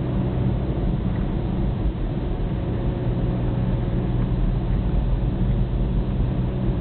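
Steady engine hum and road noise of a car on the move, heard from inside the cabin.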